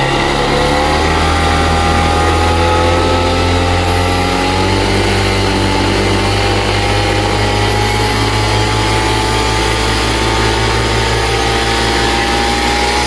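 Vittorazi Atom 80 two-stroke paramotor engine running near full throttle through a tuned expansion-chamber exhaust that has just been lengthened by 40 mm. Its pitch climbs a little over the first couple of seconds, then holds steady and loud.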